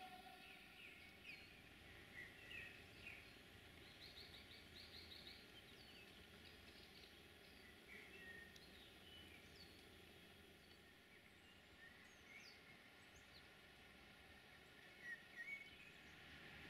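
Faint birdsong: scattered short chirps and whistles, with a quick run of repeated notes about four seconds in, over a quiet steady background.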